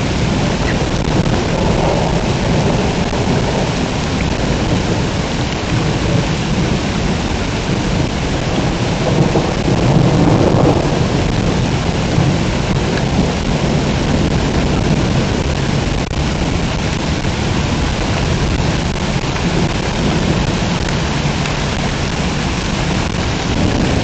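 Heavy rain pouring steadily in a thunderstorm, with a low rumble of thunder underneath that swells about ten seconds in.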